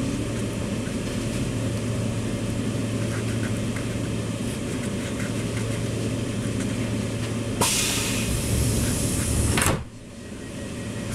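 Steady rumble and low hum of a train carriage running. About three quarters of the way through, a loud hissing rush starts suddenly, lasts about two seconds, then cuts off sharply, and the carriage noise briefly drops before building back up.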